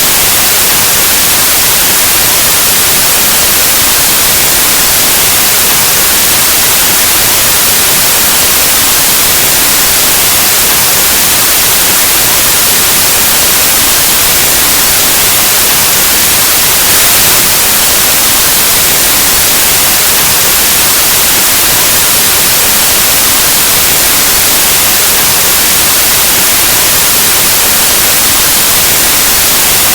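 Loud, steady white noise: an even static hiss across the whole range, brightest in the treble and unchanging throughout.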